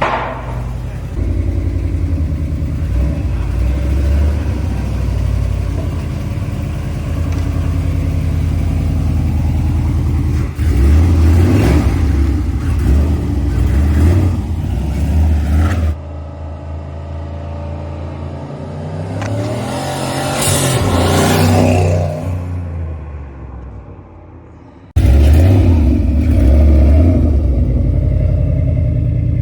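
2010 Mustang GT's V8 running through a new catless X-pipe exhaust with Hellcat mufflers, heard in several cut-together clips. The revs climb about two-thirds of the way through.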